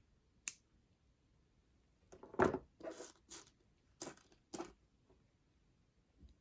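Small metal clicks and handling noise as sterling silver jump rings are closed with jewellery pliers: one sharp click about half a second in, then a quick run of five or six clicks and rustles a couple of seconds later.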